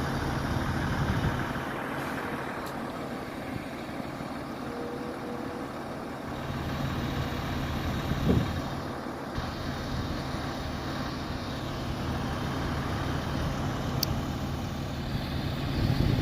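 Heavy truck's diesel engine running steadily, with a brief loud knock about eight seconds in.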